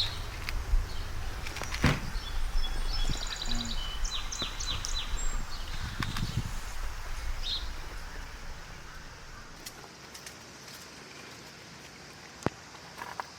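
A small bird calls a quick series of high, repeated chirps about four seconds in, over low outdoor background noise that fades away later on, with a few light clicks and knocks.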